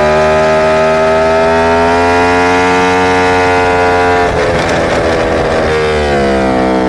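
A superbike's inline-four engine pulls under throttle, its note rising slowly. About four seconds in the sound breaks up roughly for over a second, then the pitch drops and settles at a lower steady note.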